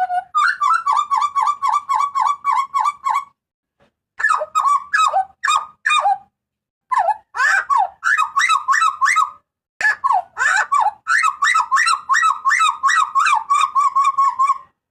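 Butcherbird (jagal papua) giving loud, harsh screaming calls: rapid runs of short repeated notes, about five a second, broken by two short pauses.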